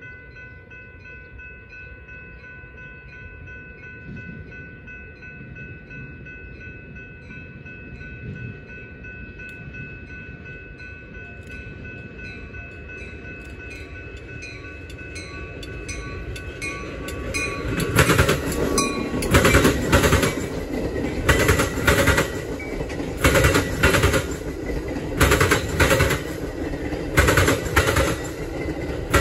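Metra commuter train approaching and passing close by. At first there is a steady high-pitched warning tone over a slowly rising rumble. From about two-thirds of the way in, the stainless-steel bilevel cars go by with loud, rhythmic clacking of their wheels over the rail joints.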